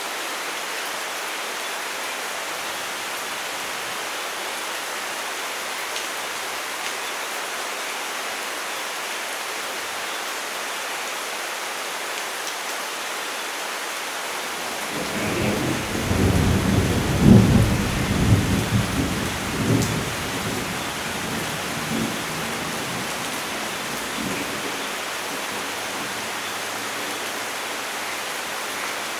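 Steady rain falling, with a roll of thunder about halfway through that rumbles and crackles for several seconds before fading back into the rain.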